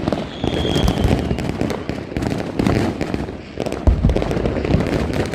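Consumer fireworks and firecrackers going off close by in a dense, continuous barrage of crackling pops, with a short high whistle about half a second in and a heavy low boom about four seconds in.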